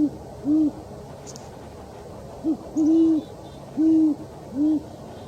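An owl hooting in low, deep hoots: the last two hoots of one series, a pause of about two seconds, then a new series of four hoots, short then long.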